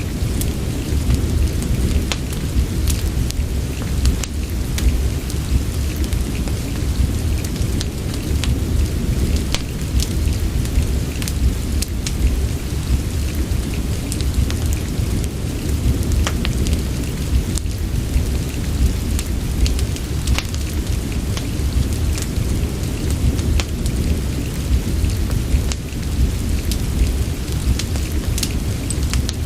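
Steady rain ambience mixed with a fireplace: an even wash of rain over a deep low rumble, with scattered sharp ticks and crackles throughout.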